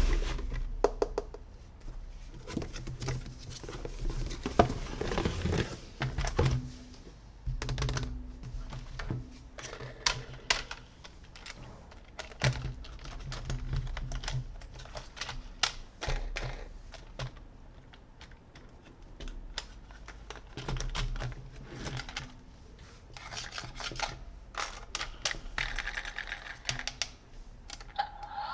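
Hands handling plastic toys and their packaging: many irregular sharp clicks and taps, with a few light knocks.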